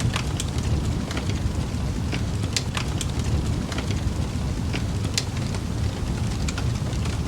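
Wood campfire burning: a steady low rumble of flame with frequent sharp crackles and pops of burning wood scattered through it.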